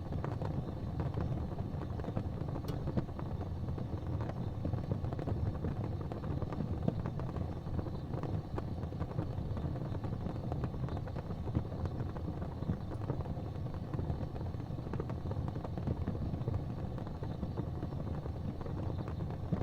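Gas fireplace flames burning steadily: a continuous low, even rumble of burning gas with faint light flickers.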